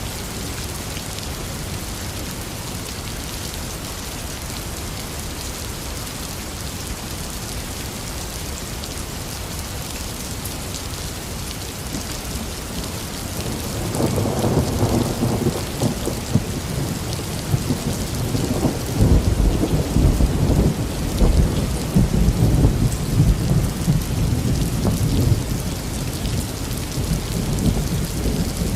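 Heavy rain falling steadily, pattering on surfaces. About halfway through a long roll of thunder builds up, rumbling loudest over several seconds and fading away near the end.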